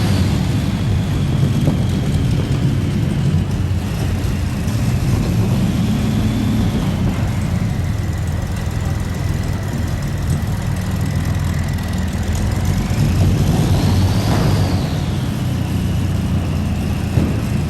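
Modified pulling tractor powered by two Allison V12 aircraft engines running hard under load down the track. There is a deep, steady engine rumble and a high whine that falls, then climbs again about fourteen seconds in before easing off.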